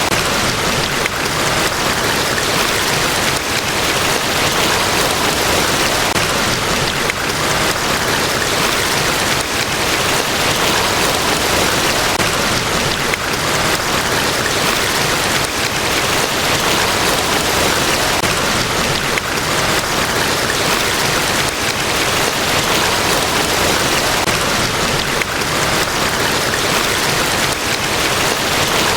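A large waterfall: a steady, even rush of falling water with no breaks or changes.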